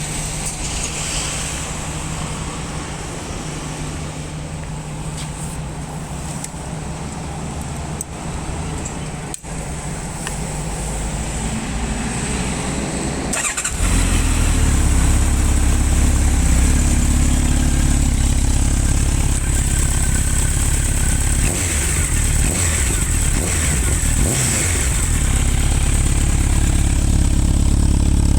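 Honda CB1300 Super Bol d'Or's inline-four engine running through an aftermarket TSR muffler, ticking over steadily. About halfway through it becomes suddenly louder and deeper, then holds at that level.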